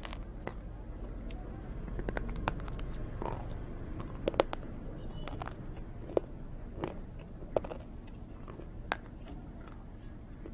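A person biting into and crunching hard roasted cubes close to the microphone, with irregular sharp crunches and chewing, the loudest about four seconds in.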